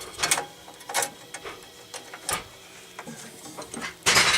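Parts of a Rock-ola 443 jukebox mechanism being handled during disassembly: scattered clicks and knocks, then a louder, longer clatter near the end.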